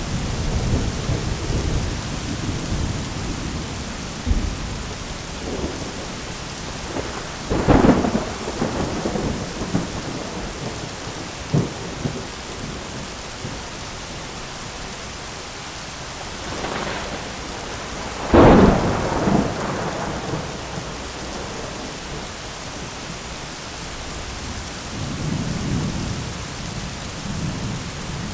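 Thunderstorm: steady heavy rain with rolling thunder. Two sharp thunderclaps come about 8 and 18 seconds in, the second the loudest, with lower rumbles at the start and near the end.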